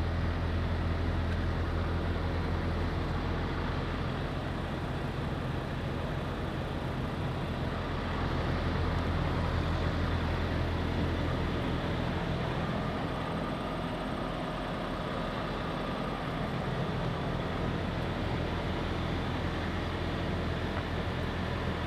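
Semi truck's diesel engine idling: a steady low rumble that eases somewhat about halfway through.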